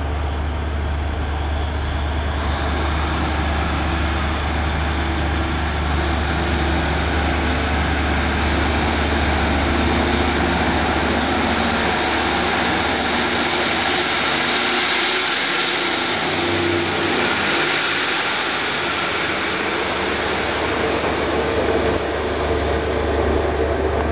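Class 150 Sprinter diesel multiple unit pulling away under power, its Cummins diesel engines working hard in a loud, continuous thrash. The tone shifts about halfway through, the low drone falling away for several seconds before returning near the end.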